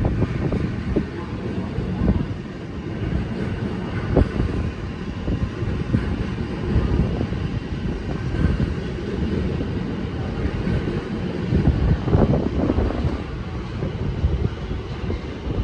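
Typhoon wind buffeting the microphone: a loud, gusty low rumble that swells and fades unevenly.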